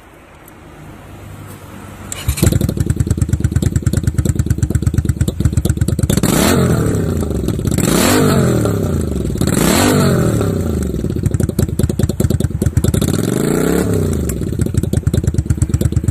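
Honda V-Twin Magna 250's V-twin engine catching about two seconds in, then running with a loud, fast-pulsing exhaust note. The throttle is blipped four times, each rev rising and falling in pitch.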